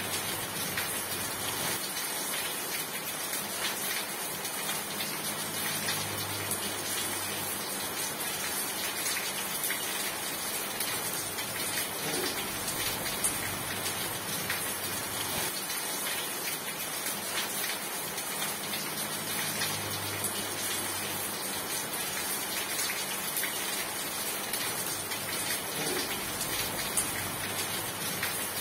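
Steady rain falling: an even wash of rain noise with many small drop ticks throughout.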